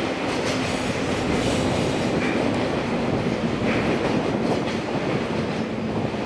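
Electric train running through the station, with a steady noise of wheels on rails and a faint steady hum.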